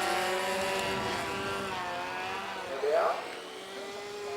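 Radio-controlled model aircraft engines droning overhead, their pitch drifting as the models fly. About three seconds in, one model makes a brief, louder pass with a quick rise and fall in pitch.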